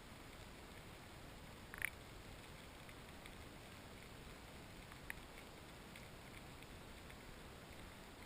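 Near silence: faint steady hiss, broken by two short clicks, one about two seconds in and a softer one about five seconds in.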